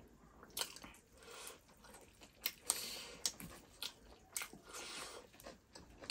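Chewing and eating sounds of people eating chicken and rice with their hands: irregular short clicks, faint.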